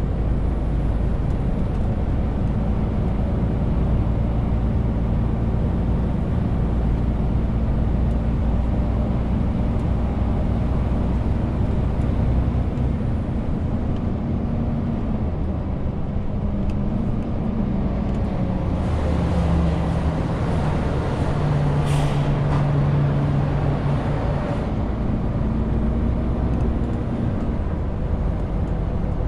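Renault T520 truck's straight-six diesel running steadily under load, its pitch shifting as the revs change. About two-thirds of the way in, a hissing rush rises for a few seconds, with a sharp click in its middle.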